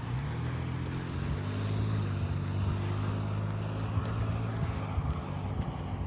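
A motor engine's steady low drone, starting suddenly and holding an even pitch, a little louder in the middle.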